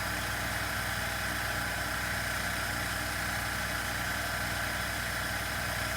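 Steady background hum, a constant low drone with a thin high tone over it, unchanging throughout.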